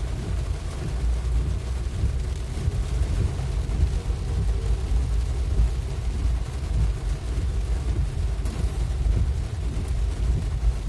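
Vehicle driving in heavy rain: a constant low, fluctuating rumble of road noise, with rain noise above it.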